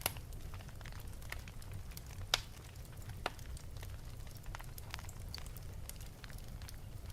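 Wood fire burning in an open fireplace: a steady low rumble of flames with frequent sharp crackles and pops, the loudest pops just after the start and about two and a half seconds in.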